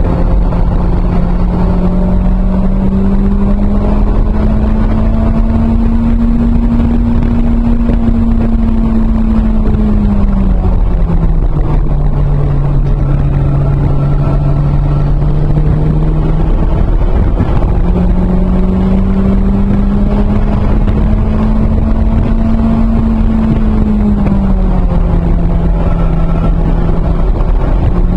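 1993 Toyota MR2 Turbo's turbocharged four-cylinder engine, heard from inside the cabin at speed, under heavy wind and road noise. Its note climbs slowly, drops about ten seconds in as the car slows for a corner, then climbs again from about seventeen seconds and dips once more near the end.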